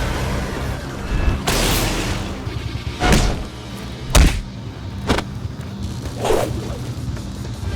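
Background music with a steady low bass under a run of fight sound effects: a whoosh about one and a half seconds in, then sharp impact hits, the loudest just after four seconds, and another swoosh a little after six seconds.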